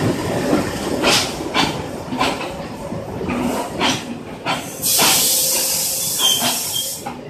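WDM-1A diesel locomotive and passenger coaches rolling slowly past close by, with irregular knocks from the wheels and running gear. About five seconds in, a loud hiss starts and lasts about two seconds.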